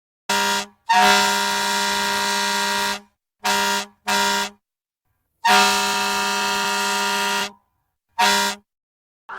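Fire truck air horn sounding six steady blasts at one pitch: a short one, a long one of about two seconds, two short ones, another long one, and a final short one.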